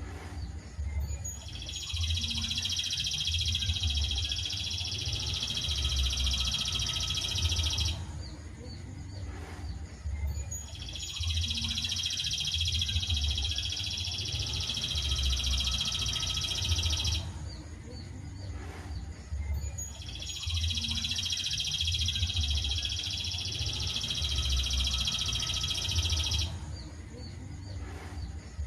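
Songbird singing a dense, high, continuous trill in three runs of about six seconds each, with short pauses between them, as in a repeated tutor recording played to train cage birds.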